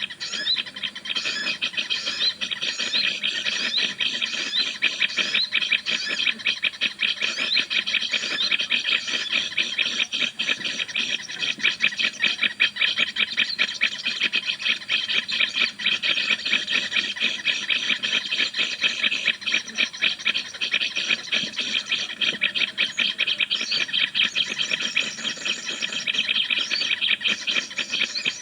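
Rapid, continuous high-pitched chirping, many short notes a second with no let-up: a bird call of the kind used to lure birds in bird trapping.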